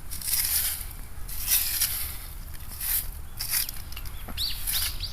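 Repeated rustling and scraping in short, uneven bursts, with a few brief squeaks near the end.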